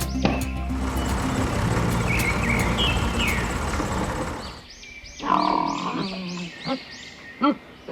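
Animal calls: a dense, noisy stretch with a few high chirps, then after a brief lull a drawn-out call followed by short repeated calls, about one every half second near the end.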